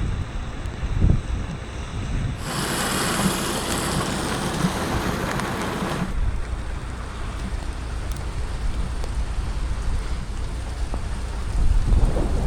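Storm wind buffeting the microphone over a steady rain hiss. A louder rush of hiss starts abruptly about two seconds in and cuts off about four seconds later, and the low rumbling of the gusts grows stronger near the end.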